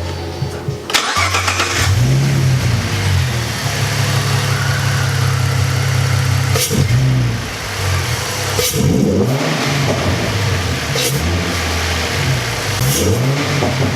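Ford Mustang V6 engine, just fitted with a Roush cold air intake, idling and revved up and back down several times, with the intake's suction noise part of the sound.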